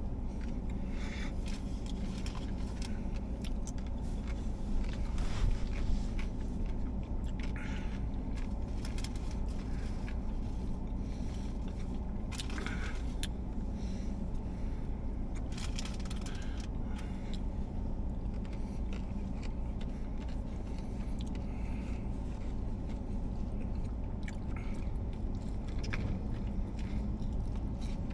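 Eating a steak-and-bacon sub sandwich: bites and chewing with scattered short rustles and clicks, over a steady low hum.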